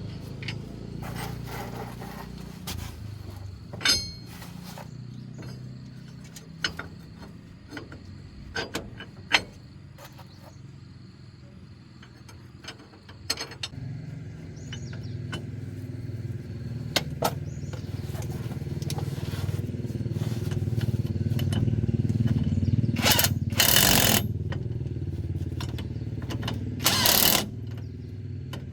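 An engine running, growing louder through the second half, with scattered metallic clicks and knocks and three short loud rushing bursts near the end.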